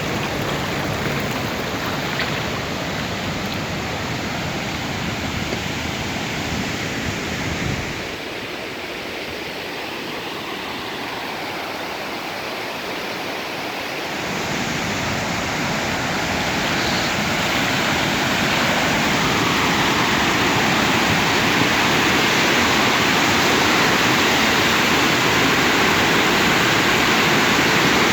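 Steady rush of fast-flowing storm floodwater. Its low rumble drops away for a few seconds near the middle, and the rush then grows gradually louder toward the end.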